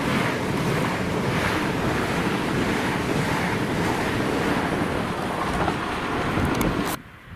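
Train passing at speed close by: a loud, steady rush of air and wheel noise with wind buffeting the microphone, a few sharp clicks near the end, then the sound cuts off suddenly.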